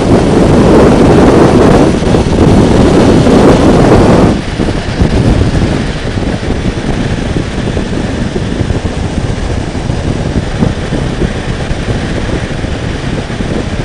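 Wind buffeting the microphone over motorcycle engine and road noise while riding. The heavy buffeting drops off about four seconds in, leaving steadier, quieter engine and road noise.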